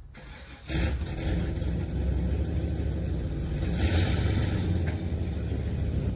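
Pickup truck pulling forward: the engine comes up under light acceleration about a second in and runs on steadily.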